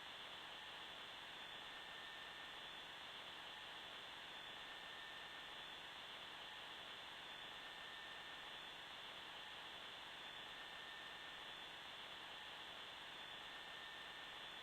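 A faint, steady hiss that does not change, with a faint high tone drifting in and out.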